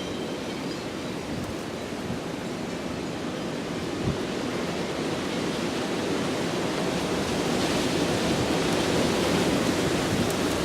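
Strong gusty wind rushing steadily and building louder as a gust strengthens.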